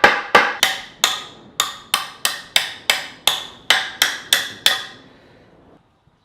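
Hammer blows on wood, about fifteen in a steady run at roughly three a second, each a sharp knock with a short ring, stopping about five seconds in.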